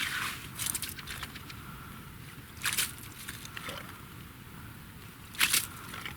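Short crunches of snow or ice, a few seconds apart, with a soft scraping now and then between them.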